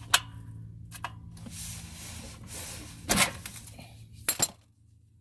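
Metal clicks and clanks of a wrench working on a car's oil drain plug as it is loosened: a sharp click at the start, a louder clank a little after three seconds and two quick clicks past four seconds, with handling noise between.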